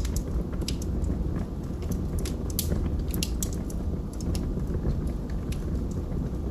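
Wood fire burning in a fireplace: a steady low rumble of flames with irregular sharp pops and crackles from the burning logs.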